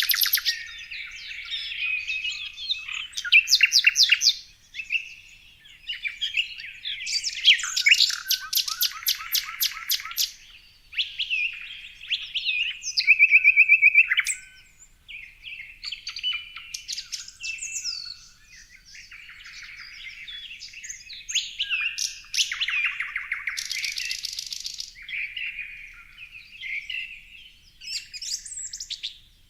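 Several small birds chirping and singing at once, overlapping calls with rapid trills and fast rattling runs of notes.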